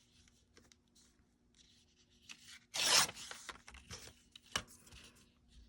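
Paper being handled: faint rustling, then a short rasping swipe about three seconds in, followed by small clicks and rustles.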